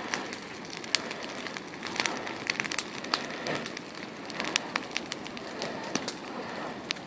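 Wood bonfire crackling: irregular sharp pops and snaps over a steady hiss.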